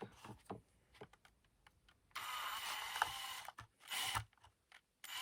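Drill with a brad-point bit running in short bursts as it bores a screw hole into a kayak's plastic hull: light clicks of handling first, then a run of about a second and a half, a brief burst about four seconds in, and the drill starting again at the end.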